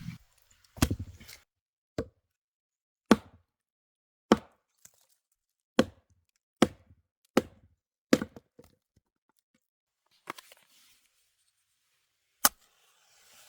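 Chopping with a blade on a hard surface: about ten separate sharp strokes, roughly one a second, with a longer pause near the end.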